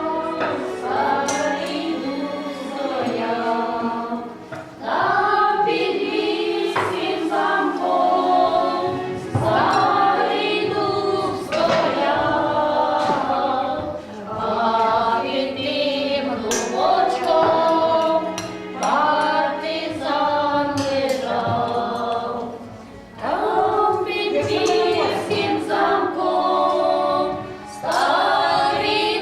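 A choir singing, several voices together in phrases of a few seconds with short breaths between them.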